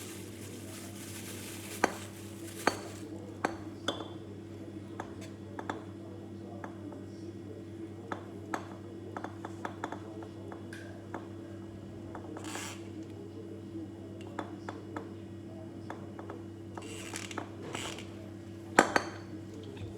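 Scattered metallic clinks and taps of tools and parts being handled, over a steady low hum.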